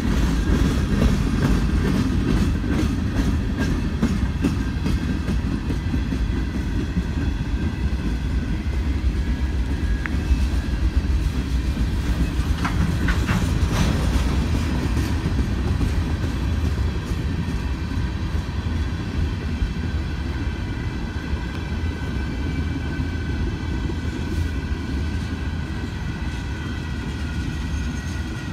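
A train rolling past: a steady low rumble of wheels on rail, with clicks as the wheels cross rail joints, easing off a little towards the end.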